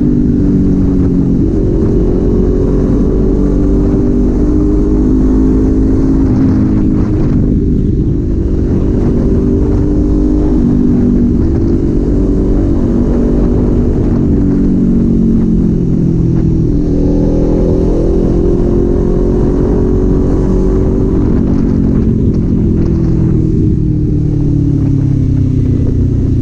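Kawasaki Z400's parallel-twin engine and exhaust while riding, the note climbing and falling with throttle and gear changes. It eases off about seven seconds in and pulls up again about seventeen seconds in.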